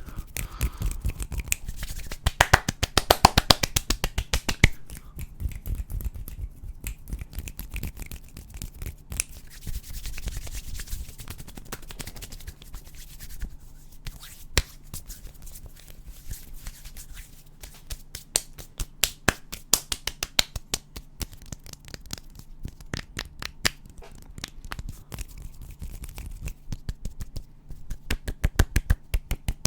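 ASMR hand sounds close to the microphone: sharp finger clicks and snaps, coming in quick runs about two seconds in, around eighteen seconds in and near the end, with soft rubbing and scratching between them.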